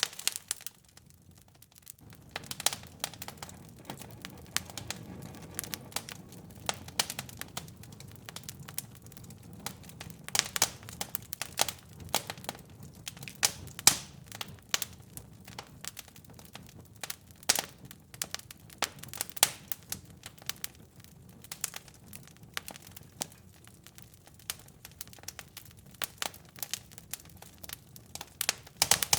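Wood fire in a fireplace crackling, with frequent irregular sharp pops. A low steady rumble of the flames comes in about two seconds in.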